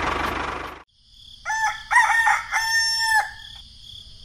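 A rooster crowing once, a four-part cock-a-doodle-doo with the last note held longest. Before it, a dense noisy sound cuts off suddenly a little under a second in, and a faint steady high-pitched ambience runs under the crow.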